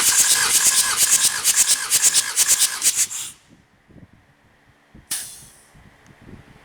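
Pressurised air hissing out in quick pulses, about seven a second, for some three seconds, then one short hiss about five seconds in: typical of a compression gauge being vented after the engine is cranked.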